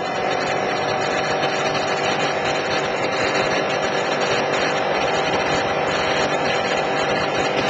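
Kawasaki Ninja 250R's parallel-twin engine running at a steady speed while riding, with a steady rush of wind and road noise.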